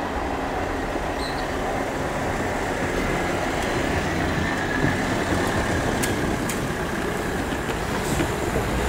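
Train running on the line at a level crossing: a steady rumble with a few sharp clicks partway through.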